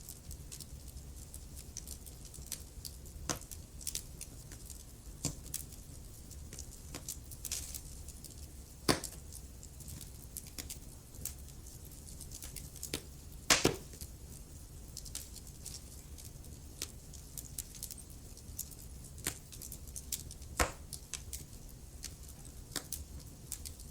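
Wood fire crackling in a fireplace: scattered sharp pops and snaps at irregular intervals over a low steady rumble, with the loudest pops about nine and thirteen seconds in.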